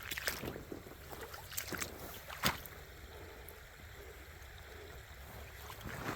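Footsteps: a few sharp steps spread irregularly, the loudest about two and a half seconds in, over a low steady rumble of wind on the microphone.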